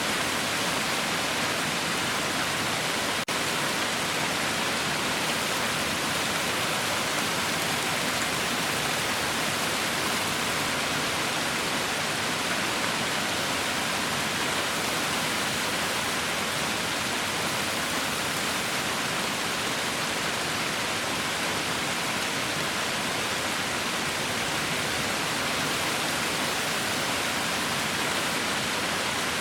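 Heavy rain falling as a steady, dense hiss with no separate drops standing out. About three seconds in, the sound dips for an instant.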